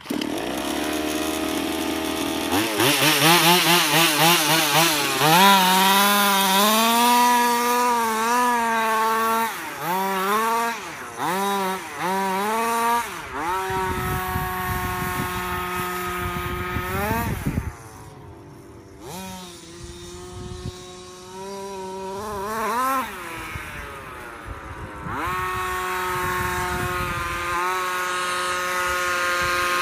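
30.5cc two-stroke gas engine of a King Motor Baja 5B RC car, revving up and down over and over with short steady stretches. It goes fainter for several seconds past the middle, revs again, then runs steadily near the end.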